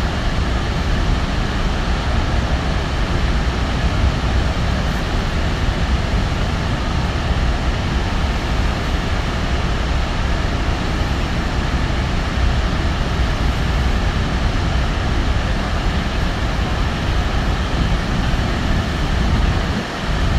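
Niagara Falls roaring: a loud, steady rush of falling water with a heavy low rumble.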